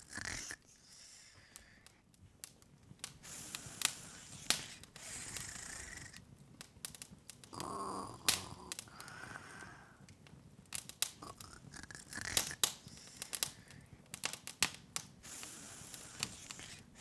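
Open wood fire crackling: irregular sharp snaps and pops over a soft hiss.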